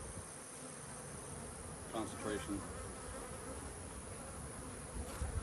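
Honeybees buzzing around open hives, a steady hum.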